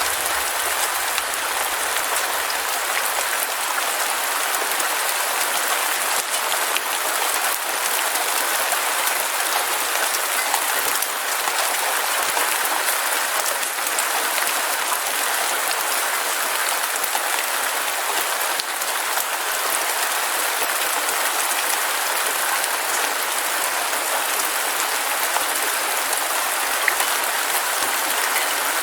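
Heavy rain falling steadily: a dense, even hiss of countless drops with a fine crackle, with no thunder.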